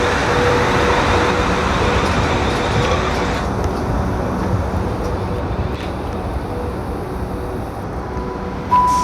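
A South Western Railway Class 444 Siemens Desiro electric multiple unit running through the station: a loud rush of wheel and running noise with a steady motor whine, easing about three and a half seconds in. Near the end a station announcement chime sounds.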